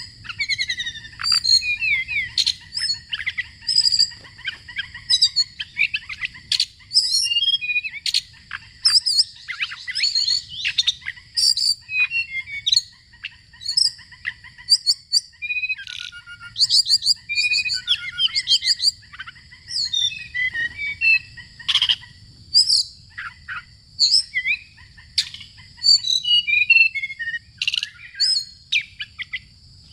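Songbirds chirping and singing in quick, varied phrases of whistles and trills, several calls overlapping, over a steady high-pitched drone.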